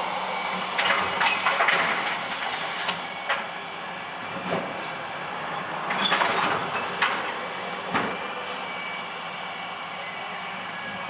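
Bin truck creaking and squeaking loudly in two bursts, about a second in and again about six seconds in, with several sharp clicks and knocks over its steady running drone.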